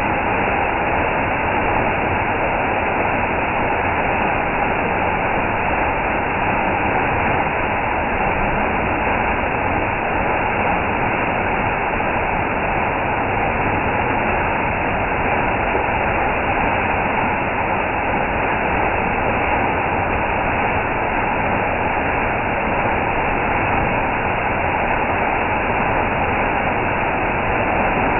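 Steady, unbroken rush of an indoor exhibit waterfall, loud and even throughout.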